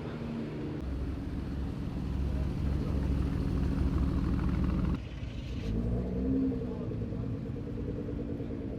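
Car engines running with a deep rumble as cars move past at low speed. The sound changes abruptly about a second in and again about five seconds in; after the second change, an engine's pitch rises and falls.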